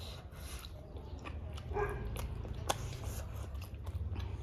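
Close-miked eating: biting and chewing food, with a few short crunchy clicks over a steady low hum.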